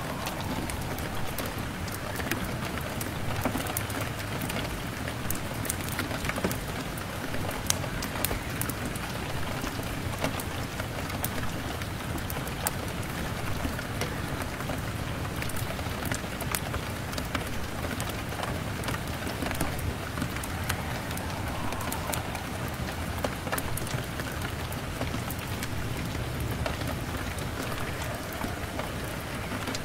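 Steady rain falling on a window pane, with many scattered sharp crackles and pops from a crackling fire mixed in.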